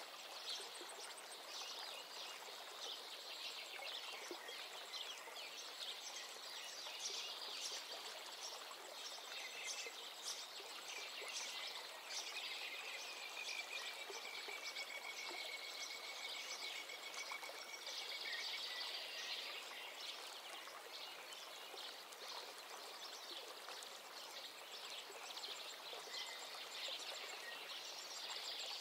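Birds chirping and calling over a steady hiss, with one long, thin, slightly falling note held for several seconds about halfway through.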